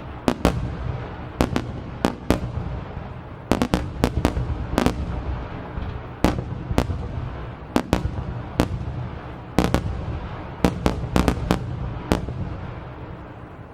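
Aerial fireworks shells bursting in a rapid barrage, about two sharp reports a second at uneven spacing over a continuous low rumble of echoing bangs, thinning out near the end.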